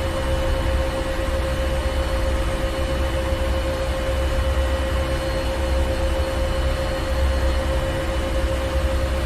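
Ship's engine room machinery running steadily: a deep low rumble that swells gently every second or so under a constant mid-pitched hum, with thinner steady whines above and a wash of noise.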